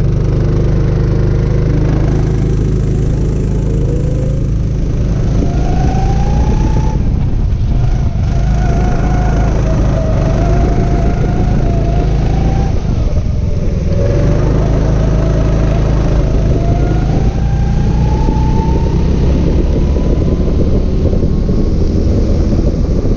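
Kart engine revving on track, its pitch climbing along the straights and dropping as the driver lifts off, several times over, above a constant low rumble.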